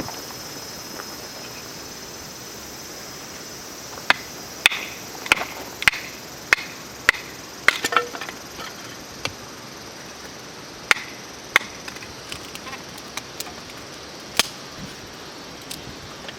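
Firewood being split by hand: a run of sharp wooden knocks at a steady pace, about seven in four seconds, then a few scattered strikes later on.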